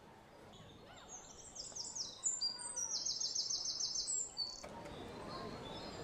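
Birds calling in rainforest: a few high notes sliding downward, then a quick run of about eight repeated high notes. A louder, steady outdoor background takes over near the end.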